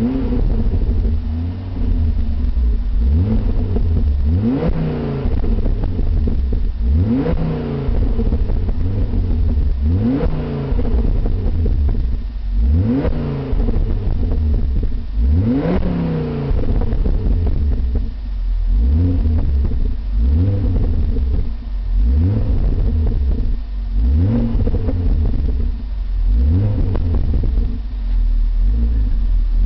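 Car engine with a Milltek aftermarket exhaust, revved repeatedly: about a dozen throttle blips, each rising in pitch and dropping back to idle, every two to three seconds. The revs in the first half climb higher than the shorter blips later on.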